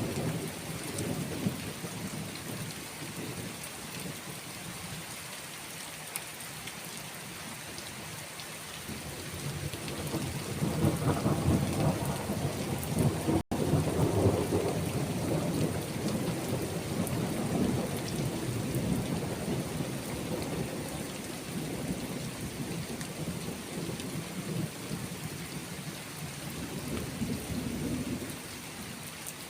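Steady rain with rolling thunder rumbling low, easing off early and then swelling to its loudest about ten to fifteen seconds in before rolling on more softly. The sound cuts out for an instant midway.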